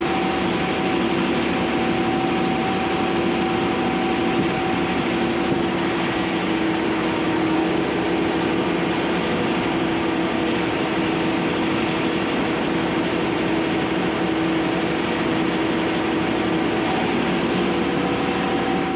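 Large farm tractor running steadily under way, a constant engine noise with a steady whine held at one pitch throughout.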